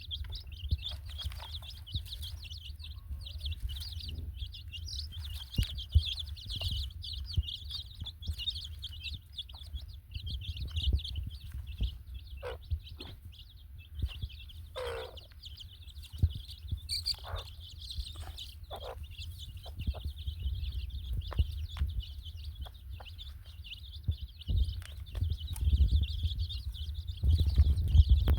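Chickens clucking now and then over a continuous, dense high-pitched chirping, with a low rumble underneath.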